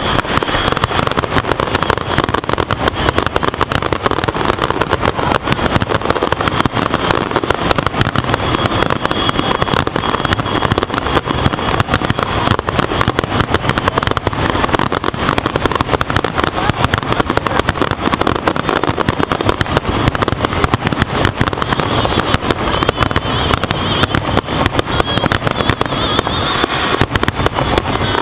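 Fireworks finale: aerial shells bursting in a rapid, unbroken barrage, one explosion on top of the next.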